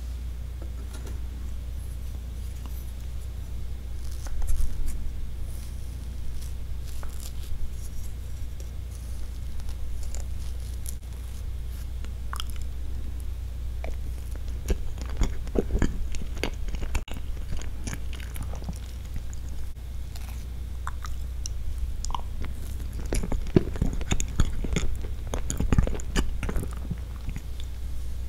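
Close-miked eating sounds: wet mouth clicks and chewing of soft sponge roll cake with cream, the sounds coming in scattered clusters over a steady low hum. A plastic spoon cuts into the roll cake near the end.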